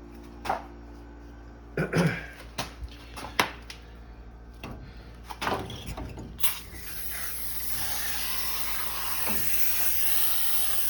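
A few handling clicks and knocks, then, about two-thirds of the way in, an aerosol can of foaming coil cleaner starts spraying in a steady hiss that does not stop.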